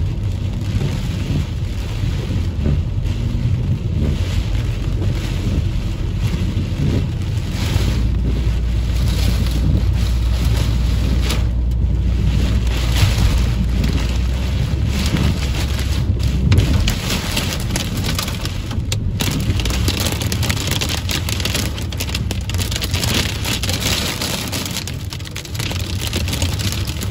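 Heavy rain drumming on a moving car's windscreen and roof, heard from inside the cabin. Under it runs a steady low rumble that fades about two-thirds of the way through.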